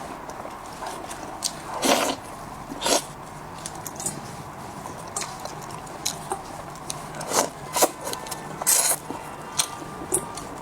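Close-miked eating: chewing and mouth clicks, with about five louder wet smacks, the loudest near 2, 3 and 9 seconds in.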